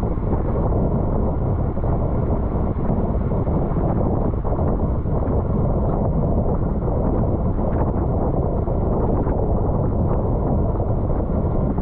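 Steady wind noise rushing over the bike-mounted camera's microphone while riding a road bike at race speed, a dense low rumble with no let-up.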